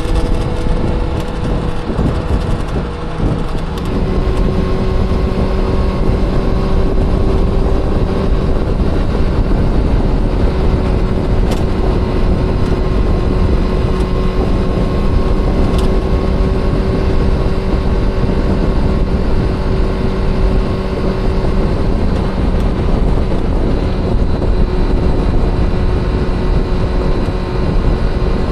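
Honda CBR400RR (NC23) inline-four engine running while the bike is ridden. The engine note drops about three to four seconds in, then holds steady.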